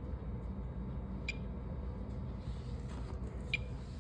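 Steady low hum of a running oil furnace heard through the floor, with two short sharp clicks, one about a second in and one near the end.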